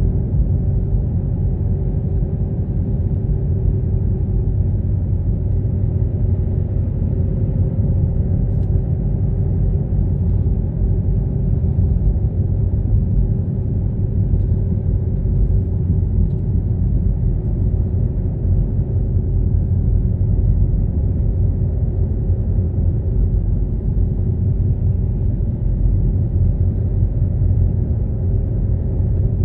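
A car being driven: a constant low rumble of engine and road noise, with a few faint steady tones in it and no change in pace.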